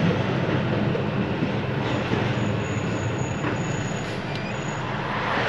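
Truck engine running steadily, heard from inside the cab, with traffic noise around it.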